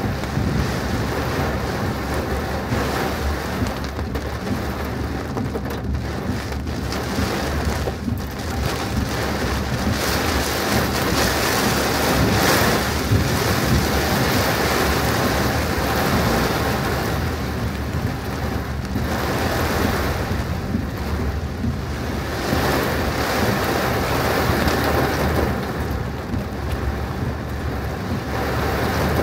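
Heavy rain pelting a moving car, with a steady engine hum underneath. The downpour swells louder for several seconds about ten seconds in and again around twenty seconds.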